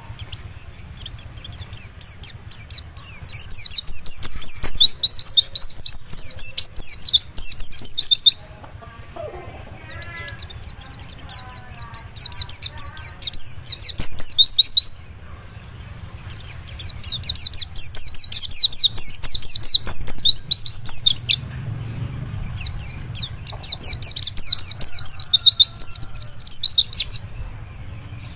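Dakun white-eye (pleci) singing: long runs of rapid, high twittering trills lasting several seconds each, broken by short pauses, four runs in all, with a softer lower warble in the first pause.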